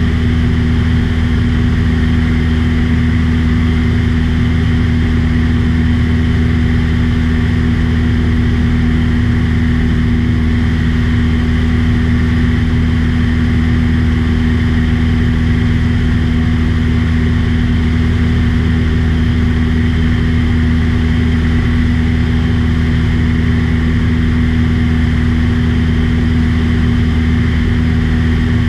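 Light airplane's piston engine and propeller running with a loud, steady hum at one unchanging pitch.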